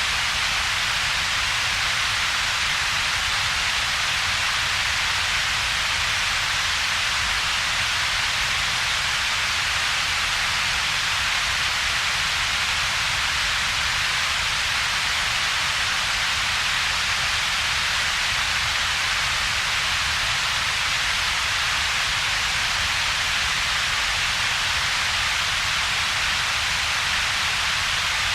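Synthetic 'double-peaked' colour noise, steady and unchanging: a bright hiss centred around 2 to 4 kHz over a separate low rumble below about 200 Hz, with a gap between the two.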